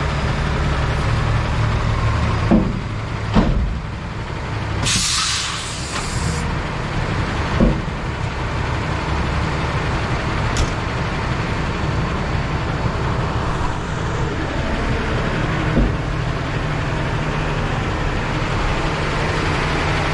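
Dump truck's diesel engine running steadily, with a few sharp thumps and a hiss of air from the air brakes about five seconds in.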